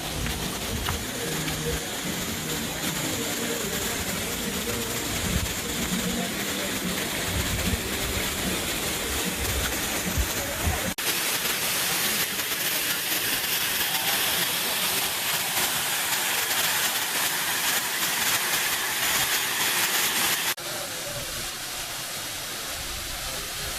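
Waterfall running: a steady rush of falling water. It changes abruptly twice, becoming brighter and hissier in the middle stretch, then duller again.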